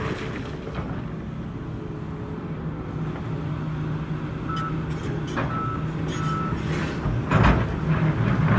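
Heavy diesel machinery running steadily, with a reversing alarm beeping three short times about halfway through and a loud crash of rock near the end, typical of rocks dropping into a dump truck's body during loading.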